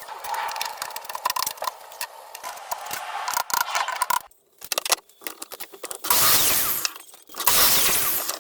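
Rapid irregular clicking and light clinking of hard objects being handled, then two longer stretches of scraping noise from about six seconds in.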